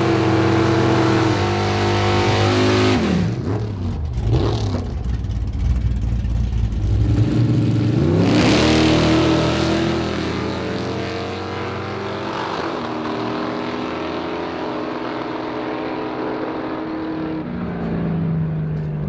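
Car engine running and revving, its pitch holding steady, then dropping sharply about three seconds in, climbing again near the middle, and stepping down twice later on.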